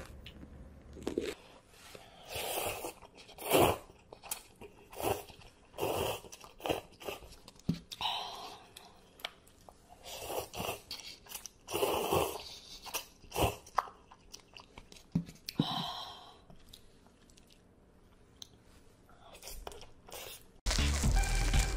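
Close-miked eating sounds: irregular crunching, biting and chewing of food right at the microphone. Music starts just before the end.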